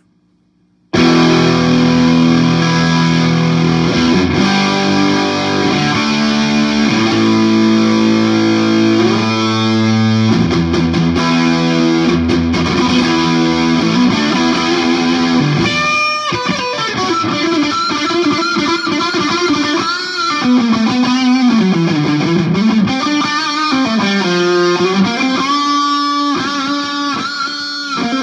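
Distorted electric guitar: a 1967 Gibson SG with three P90 pickups played through a Marshall JCM 2000 amp and HeadRush pedalboard effects. It starts about a second in with held chords, and about halfway through it switches to a lead line with string bends and vibrato.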